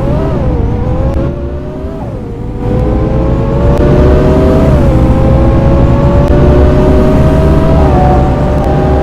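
Scania K230UB city bus engine pulling away under load, heard on board. Its pitch climbs and drops back several times as the Voith automatic gearbox shifts up, then keeps rising slowly as the bus gathers speed.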